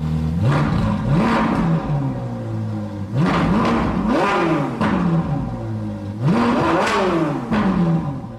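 A car engine revved three times, each time climbing quickly in pitch and then sinking back slowly as the revs fall.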